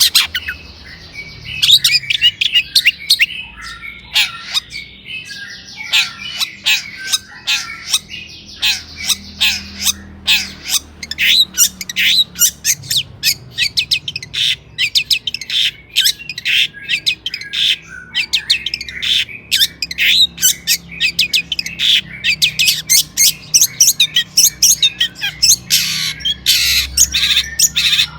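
Long-tailed shrike singing a loud, harsh, chattering song. It opens with varied, wavering phrases and then runs into a fast series of short, sharp notes, several a second.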